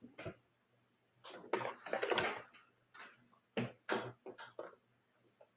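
Plastic nasal cannula tubing being handled and pulled away: soft, scattered rustles and light knocks in a few short clusters.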